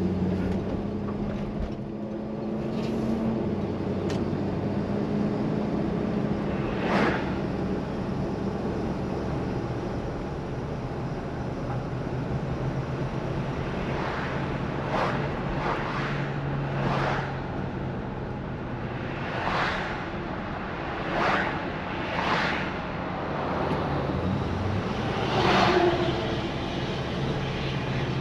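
1968 Plymouth Fury's 383 big-block V8 running while the car drives, heard from inside the cabin as a steady drone. Its pitch drops about four seconds in and rises again past the middle. Several short swells of noise pass over it.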